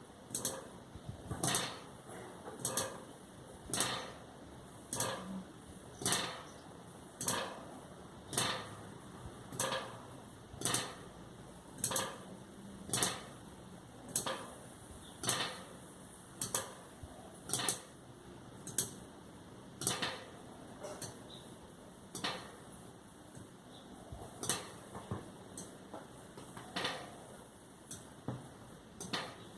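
Sharp clicks or taps repeating about once a second, now and then in quick pairs.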